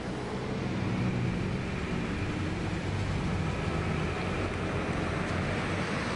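Lamborghini V12 engines running: a steady engine drone with no sharp revs.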